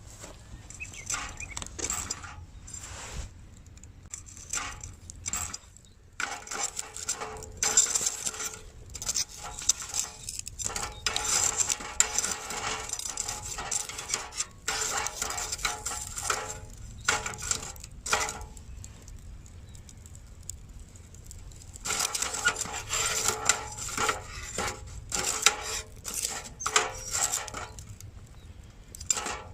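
Irregular clinks and rattles of small metal objects being handled, coming and going in busy stretches of several seconds, over a faint low hum.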